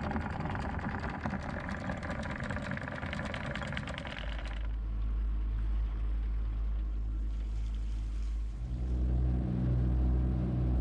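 A boat's motor running steadily under a noisy wash of wind and water for the first few seconds. About nine seconds in, the motor's steady hum grows fuller and louder.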